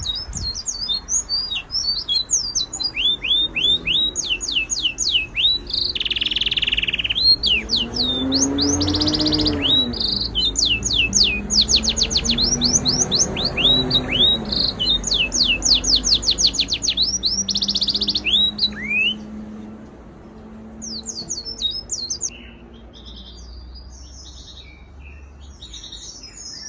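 Small birds chirping busily in quick runs of high, downward-sweeping chirps. A little past the middle the chirping thins out to fainter, scattered calls.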